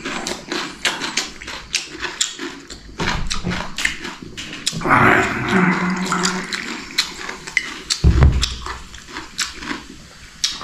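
Close-up eating sounds: many crisp clicks of chewing. A louder rushing, slurp-like noise comes about five seconds in, and a low thud a little after eight seconds.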